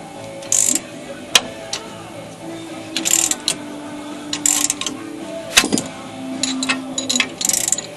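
Ratchet wrench being worked on bolts in short bursts of clicking, about four strokes, with a couple of sharp metal clinks between them.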